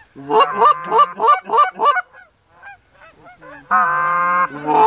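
Geese honking: a quick run of about six honks in the first two seconds, then a longer drawn-out honk near the end.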